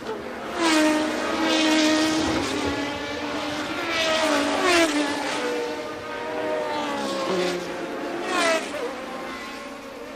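Several 1982 Formula One cars passing, their engine notes rising and then dropping sharply in pitch at gear changes, one car after another, with overlapping engine notes.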